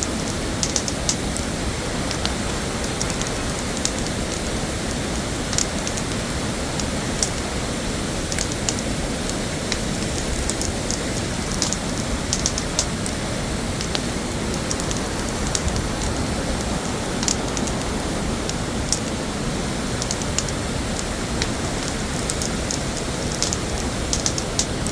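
Steady rushing of a waterfall, with irregular small, sharp crackles over it.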